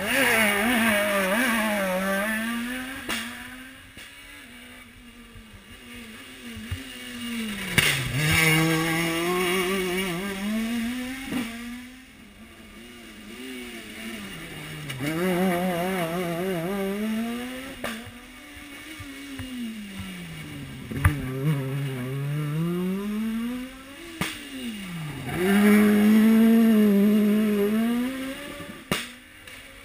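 Rally car engines on a special stage, revving hard and dropping in pitch again and again through gear changes as they drive past, loudest near the start, about eight seconds in, about sixteen seconds in and near the end. Several sharp cracks are scattered among the revs.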